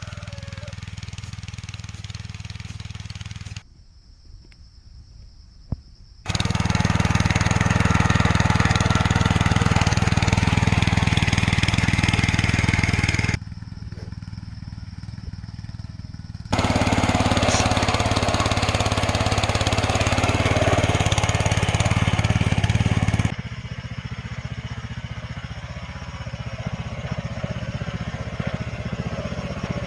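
A small engine runs steadily with a strong low drone, cut into edited stretches. The loud stretches alternate abruptly with quieter ones, and there is a brief near-quiet gap about four seconds in.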